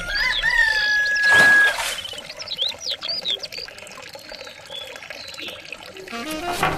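Water running and splashing, with a louder surge of splashing about a second and a half in and high whistling chirps over it. Music begins near the end.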